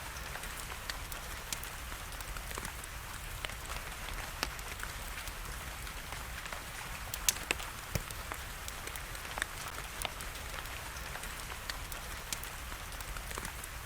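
Steady rain hiss mixed with the scattered sharp crackles and pops of a burning wood fire, the loudest pops coming a little past the middle.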